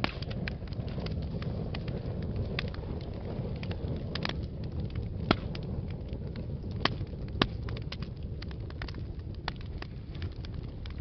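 Wood fire burning in a fireplace: a steady low rumble of flames with frequent sharp crackles and a few louder pops.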